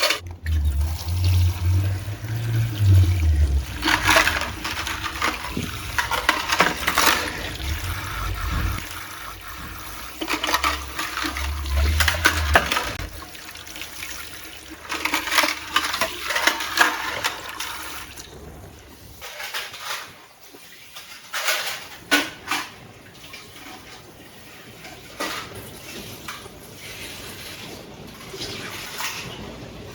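Water rushing and splashing in irregular surges every few seconds, with a low rumble under the first half, then quieter with scattered clicks.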